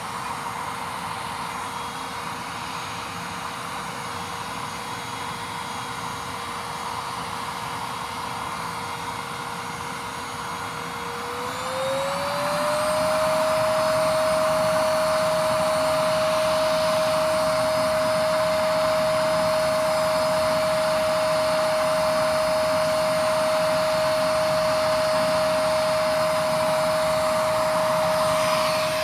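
GeeMo K14 cordless stick vacuum running with a steady motor whine over a rush of airflow. About twelve seconds in, the whine glides up in pitch and gets clearly louder as the motor steps up to a higher power setting, then holds steady.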